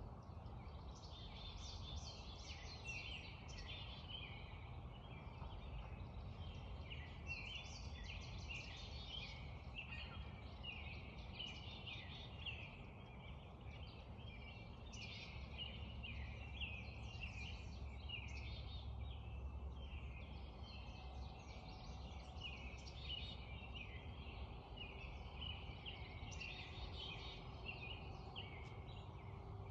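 Dawn chorus of many songbirds singing at once, with short, overlapping, high chirps and song phrases running without a break, over a steady low background rumble.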